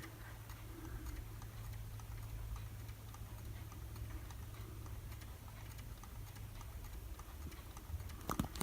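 Quiet room tone: a steady low hum with faint, irregular small ticks, and one short sharp click near the end.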